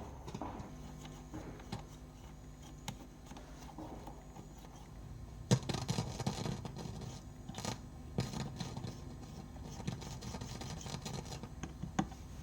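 Irregular clicks, knocks and scraping over a steady low hum, busiest in the second half, with the loudest click about five and a half seconds in.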